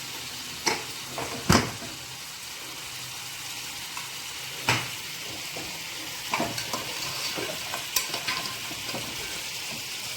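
Steady sizzle of food frying in a pan, with metal clanks of cooking utensils against pots: a loud clank about a second and a half in, another near five seconds, and a run of lighter clinks and scrapes of stirring toward the end.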